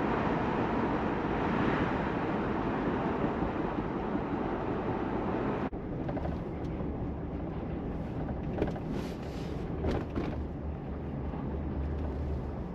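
Jeep driving at road speed, heard from inside the cabin: steady tyre and road noise over a low engine hum. Just under halfway through it drops abruptly to a quieter, deeper rumble.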